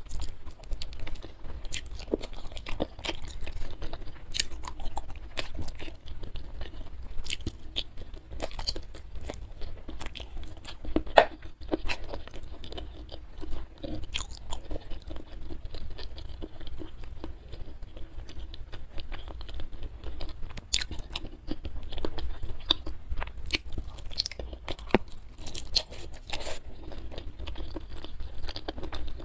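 A person eating close to the microphone: chewing and crunching spiced chicken feet, with many irregular sharp crunches and clicks.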